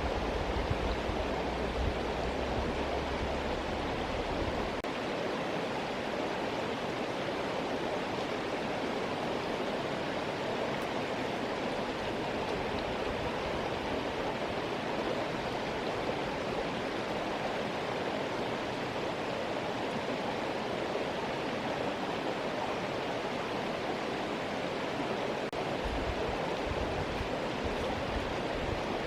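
Flowing river or stream water rushing steadily, with a low rumble in the first few seconds and again near the end.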